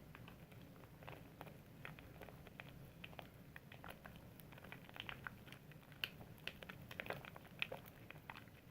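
Soap being lathered: faint, irregular wet crackling and squishing clicks, thicker and sharper in the second half.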